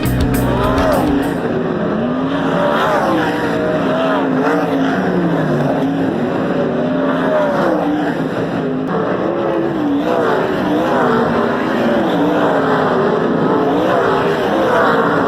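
Several dirt track race car engines running on the track, their pitch rising and falling over and over as the cars lap.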